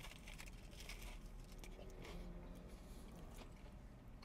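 A man chewing a mouthful of crispy waffle cone filled with chicken pops. There are faint crunches for about the first second, then quieter chewing.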